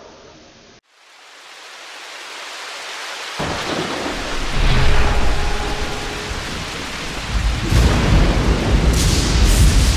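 Thunderstorm: heavy rain fades in, and deep rolling thunder starts rumbling about three and a half seconds in, swelling again near the end.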